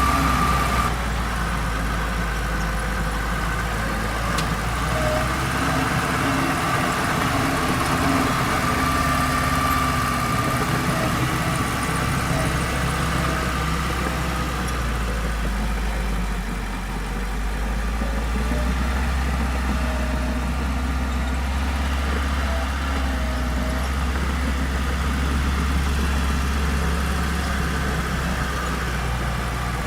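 Diesel engine of heavy earthmoving machinery running steadily, with a thin high whine that comes and goes.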